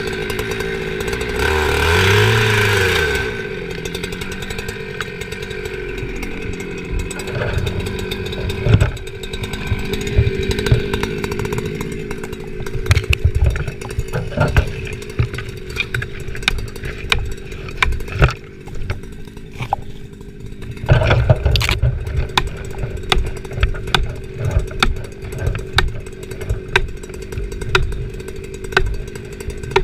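Chainsaw running steadily while cutting a tree, with many short knocks and clatter of wood. A loud thump comes about two-thirds of the way through.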